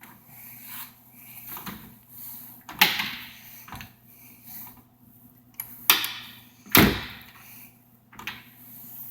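A few separate knocks and thuds, like a fire truck's doors being handled, the loudest and deepest about seven seconds in.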